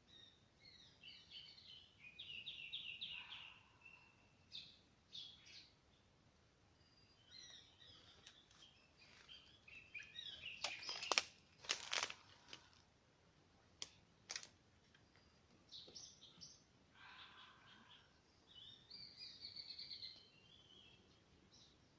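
Small birds chirping and trilling in short, faint bursts, with a few sharp clicks about halfway through.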